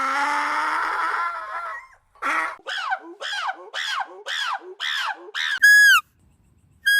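Animal calls: a long held call, then a run of about six short calls, each falling in pitch, followed near the end by a loud, high call that also falls in pitch.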